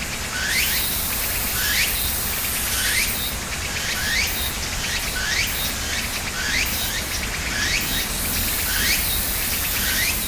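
A bird repeats a short rising chirp about once or twice a second, over a steady high-pitched chorus of insects.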